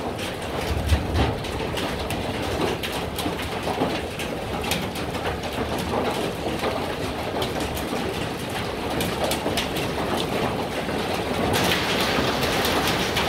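Rain shower falling steadily, with many sharp ticks of drops striking; it grows heavier and hissier near the end. A brief low rumble about a second in.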